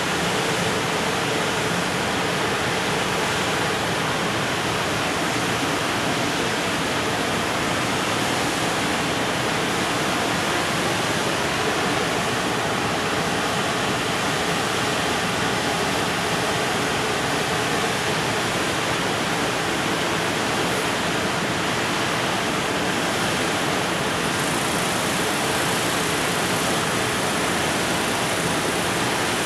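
Freight train's container wagons rolling past on the rails: a steady, even rushing noise with no change in loudness.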